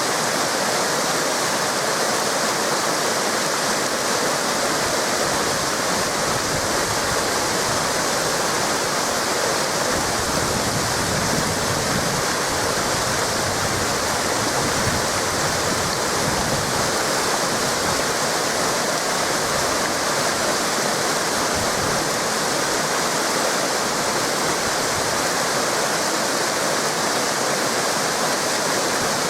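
Waterfall cascades and rushing river water, a steady, unbroken roar.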